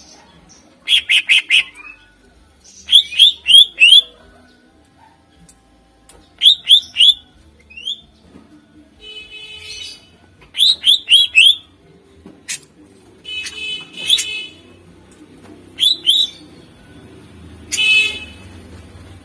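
Cucak ijo (greater green leafbird) singing: quick bursts of four or five sharp rising whistled notes every few seconds, mixed with harsh buzzy rattling phrases.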